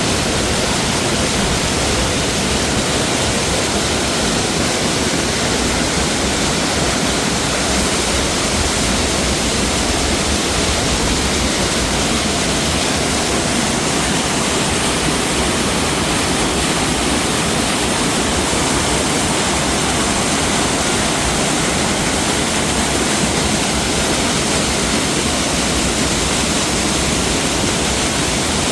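Waterfall cascading over rocks: a loud, steady rush of falling water with no change.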